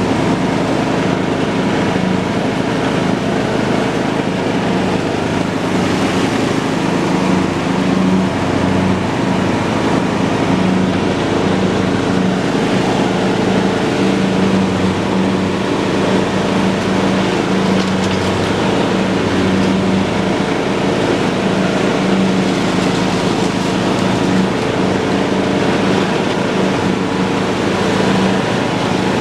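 John Deere lawn tractor's engine running steadily under load while mowing, with the whir of the cutting deck.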